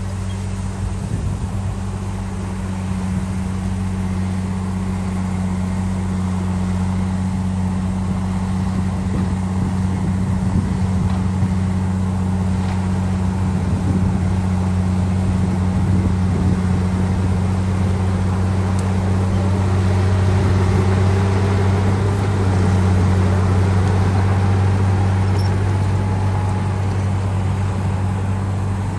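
Heavy diesel engine of a bulldozer running steadily at a constant low pitch, with a faint whine that rises in pitch in the last third.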